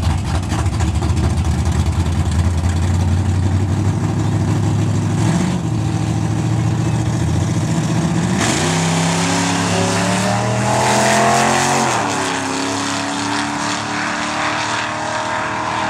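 Two drag-race V8s, a Chevy S10 with a 355 and a Camaro with a 408, rumbling at the starting line, then launching at full throttle about eight seconds in. The revs climb steadily for a few seconds, drop at a gear shift, and the engines pull on down the strip.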